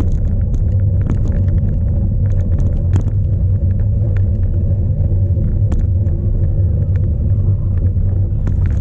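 Cyclocross bike ridden at race speed, heard from a bike-mounted camera: a steady, loud rumble of wind on the microphone and tyres on the ground, with frequent small clicks and rattles from the bike.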